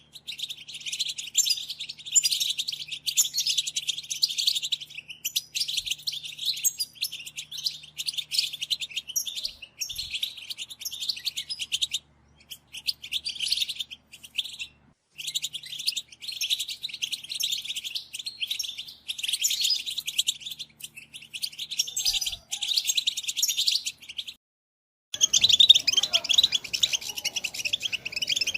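European goldfinch twittering song: long runs of rapid chattering notes broken by a few short silences. After the last break, about four-fifths in, the song picks up again louder over more background hiss.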